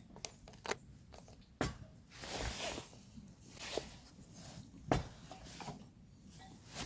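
Handling noises: scattered sharp knocks and clicks, two of them louder, between short stretches of rustling.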